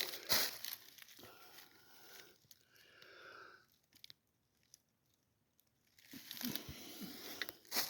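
Dry leaves and twigs crunching and crackling underfoot in short bursts, with a quiet pause in the middle.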